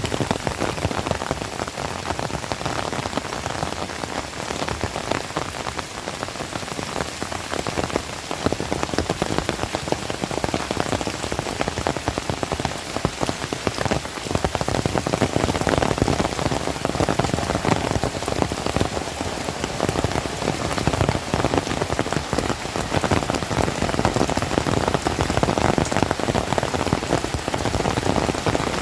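Heavy rain falling steadily, dense drops pattering on surfaces. It grows somewhat heavier about halfway through.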